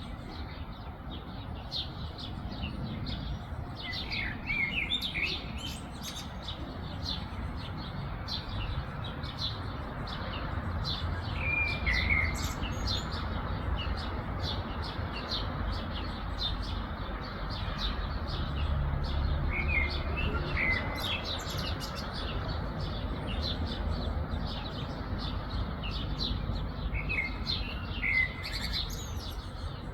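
Several small birds chirping and singing, with one falling song phrase recurring about every eight seconds, over a steady low rumble.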